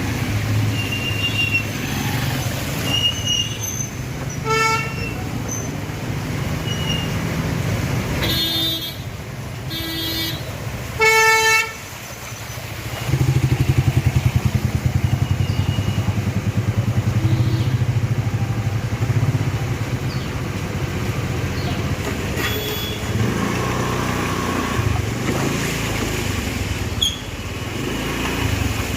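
Road traffic: vehicle engines running with several horn honks, one short honk about five seconds in and a cluster of honks around eight to eleven seconds in. A louder engine close by runs through the middle.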